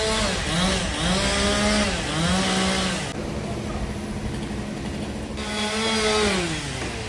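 Chainsaw running, its engine pitch dipping and rising again several times as it works, with a stretch in the middle where the higher hiss drops away.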